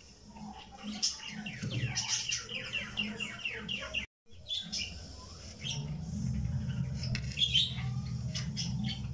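Birds chirping, with a quick run of falling chirps in the first few seconds. The sound drops out for a moment about four seconds in, and a low hum runs under the second half.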